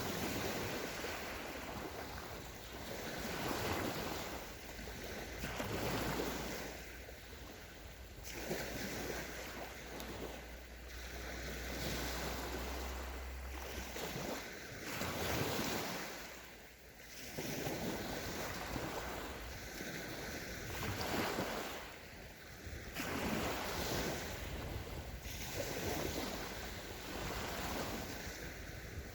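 Sea waves washing onto a sandy shore, the surf swelling and easing every two to three seconds. A low wind rumble on the microphone is there for the first half.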